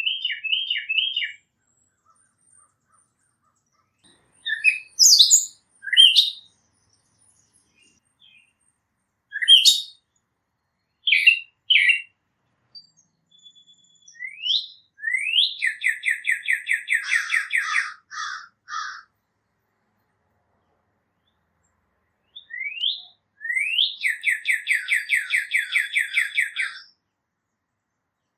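Small songbirds calling and singing: scattered short high chirps, then twice a couple of rising notes run into a rapid trill lasting about three seconds.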